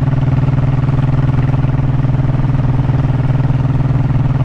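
Honda motorcycle engine running at a steady, unchanging pitch, with no revving.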